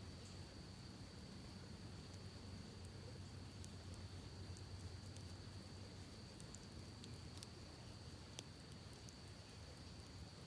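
Campfire crackling faintly with scattered sharp pops, two of them louder near the end, over the steady low rush of a creek and a steady high-pitched insect drone.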